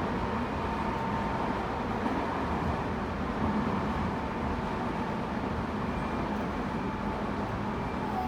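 Interior running noise of a Tobu 9050 series electric train at speed: a steady rumble of wheels on rail with a faint constant tone near the middle of the range.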